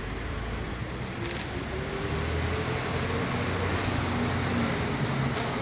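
Outdoor background: a steady high-pitched hiss over a low rumble, with a faint droning hum that slowly rises in pitch.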